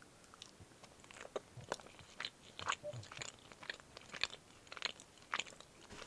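A person biting into and chewing a peanut butter banana filled chocolate. Faint, irregular crunches and mouth clicks come every half second or so.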